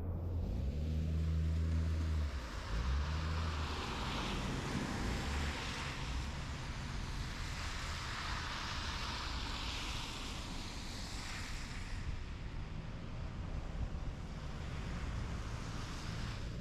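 Snowstorm street sound. A vehicle's low engine hum bends down in pitch and fades out about three seconds in. Then a steady rushing noise of wind and traffic swells and fades several times.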